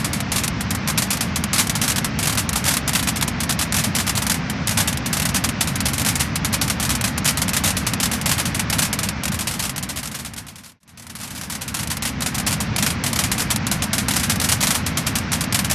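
Wood fire crackling and popping, a dense run of small snaps over a steady hiss. About eleven seconds in the sound fades out almost to nothing and swells back within a second or so.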